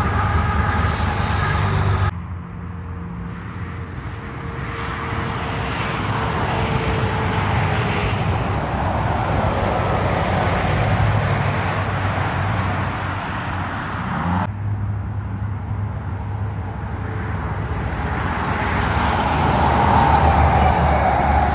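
Roadside traffic with heavy trucks passing: engine and tyre noise swelling as each vehicle approaches and fading as it goes by. The sound changes abruptly about two seconds in and again about two-thirds of the way through, where the recording is cut.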